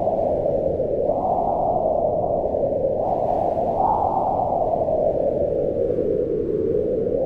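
Howling wind, a steady rushing that swells and eases in slow gusts, rising a little in pitch about a second in and again about four seconds in.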